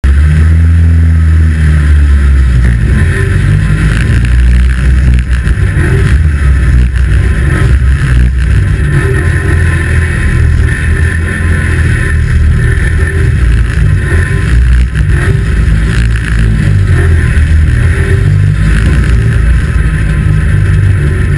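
Engine of a 2-litre saloon stockcar running at a steady low pace as the car rolls along, heard loud from inside the cockpit, with no hard revving. It cuts in suddenly at the start.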